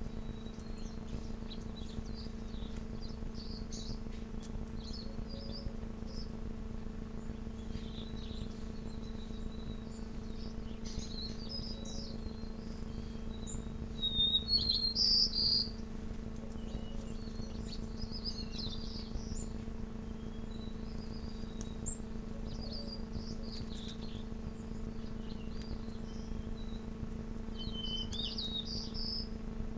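Small songbirds chirping and twittering on and off throughout, with a louder cluster of chirps about halfway through. A steady low hum runs underneath.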